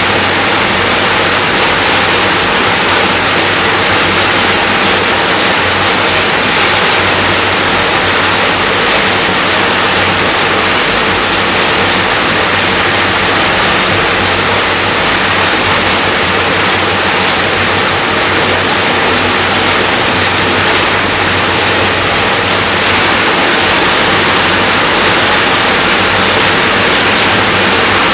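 Steady rainfall, a constant dense hiss with no breaks or changes.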